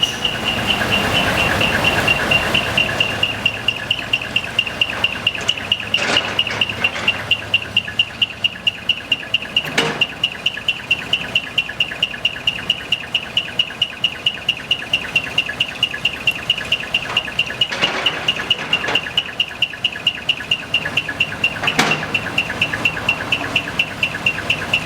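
Idling diesel of a decorated dump truck with a split exhaust manifold (mani-wari), its muffler giving the high, even 'piko-piko' chirp at about four to five chirps a second. A few sharp knocks stand out now and then.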